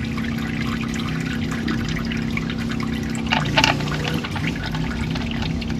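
Engine oil pouring out of a Duramax diesel's open drain hole into a drain pan in a steady stream, over a steady low hum. A short metallic clinking comes about three and a half seconds in.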